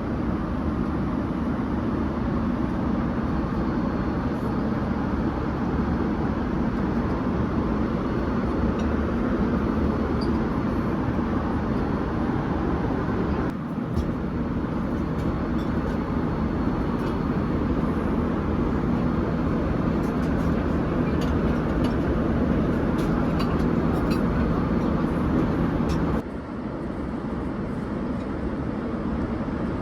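Steady engine and airflow noise inside a Boeing 787 airliner cabin. The noise changes abruptly about halfway through and again near the end.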